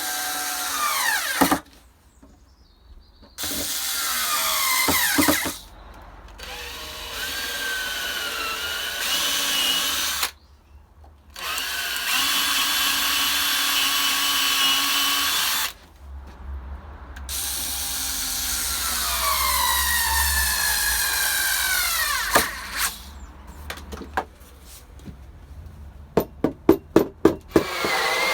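Drill driving a hole saw through wood, run in several long bursts with short stops. Its whine sags and recovers as the saw bites, and near the end come about seven quick trigger blips.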